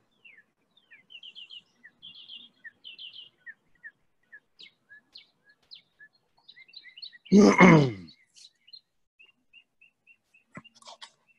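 Small songbirds chirping, with several quick trills of repeated high notes in the first few seconds and scattered single chirps after. About seven seconds in, a short, loud vocal sound from a person cuts across the birdsong.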